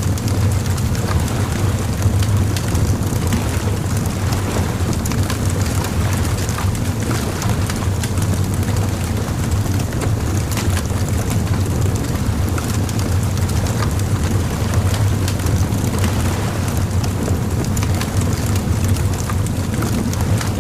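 Bonfire crackling, with scattered sharp pops, over a steady low rumble.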